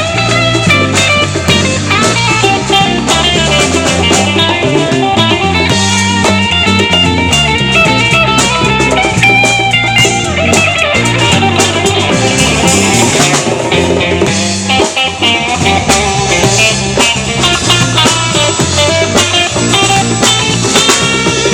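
Live band playing an instrumental passage with no singing: fast runs of notes over a steady drum beat.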